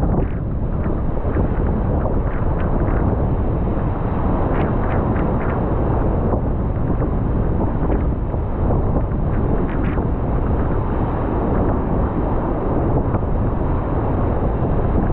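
Force 7 wind buffeting the microphone in a steady, loud rumble, with the sea's waves and surf under it.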